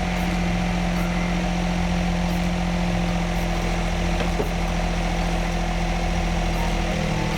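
Suzuki Alto Turbo RS (HA36S) 660 cc turbocharged three-cylinder idling steadily through a freshly fitted HKS Legamax Sports aftermarket muffler, run to check the new exhaust for leaks. The note is even and fairly quiet for an aftermarket muffler, and the low tone shifts slightly near the end.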